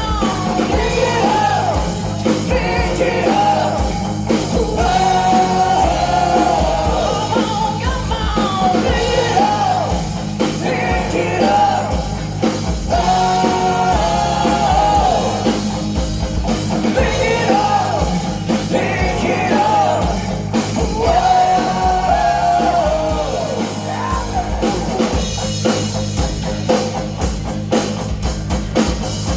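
Rock band playing a song with a singer's voice over guitar, bass and drums; about three-quarters of the way through the singing stops and the drums and guitar carry on.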